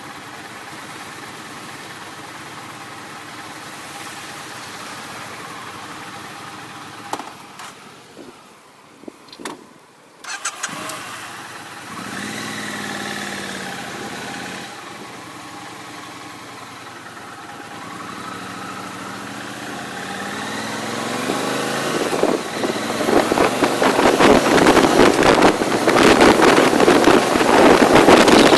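A vehicle engine running steadily, then going quieter with a few clicks. It picks up again about ten seconds in and its pitch rises and falls, then climbs as it speeds up. In the last several seconds a loud rush of wind over the microphone builds up.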